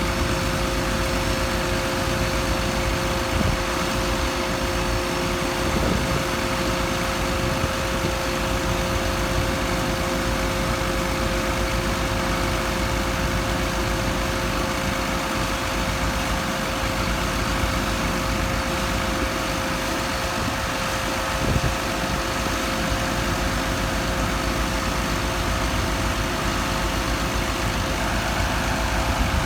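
An engine idling steadily, with a constant hum-like tone over the rumble and a few faint knocks.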